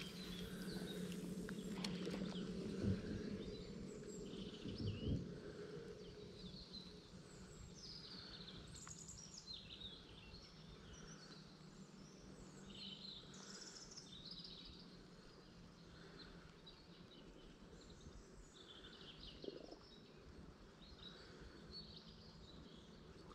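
Small birds chirping repeatedly over faint outdoor background noise. A low steady hum and a couple of soft knocks sound in the first few seconds, then fade.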